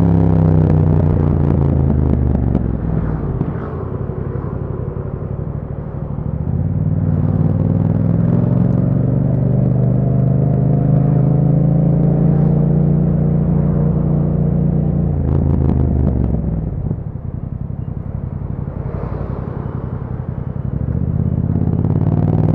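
2021 Yamaha MT-07's parallel-twin engine through an Akrapovic exhaust in city riding. The revs fall off at first, climb slowly as the bike pulls along, then drop to a low steady run for a few seconds before rising again near the end as it accelerates.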